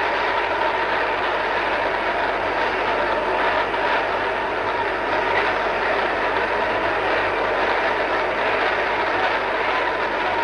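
A large congregation praying aloud all at once: many voices blend into a steady, dense crowd din with no single voice standing out. A faint steady tone sits underneath.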